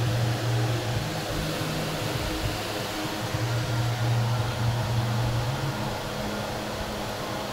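Steady mechanical hum over a noisy background, with a deeper low drone that sounds for stretches and drops out, the last time near the end.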